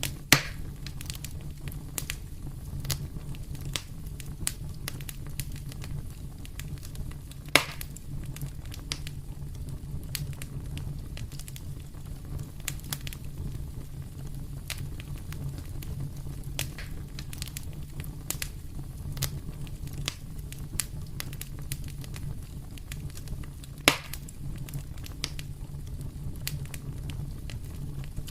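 A fire crackling in a fireplace, with frequent small pops and snaps. There are three loud single pops: right at the start, about seven and a half seconds in, and about 24 seconds in. A steady low drone runs underneath.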